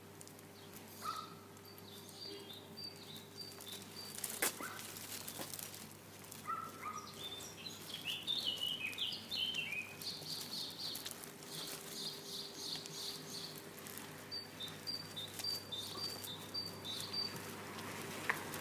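Small birds chirping in short repeated high calls, with a quick run of falling chirps about eight seconds in, over a faint steady hum and one sharp click.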